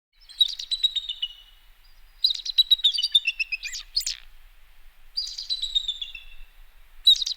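Bald eagle calling: four bouts of rapid, high, thin chattering notes, each bout falling in pitch and lasting about a second.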